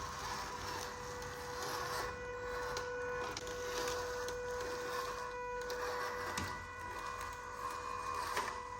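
Small electric motor and gearbox of an RC model truck whining steadily, with a few faint clicks.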